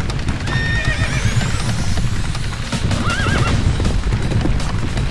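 A herd of horses galloping, with dense, steady hoofbeats, and a horse whinnying about three seconds in.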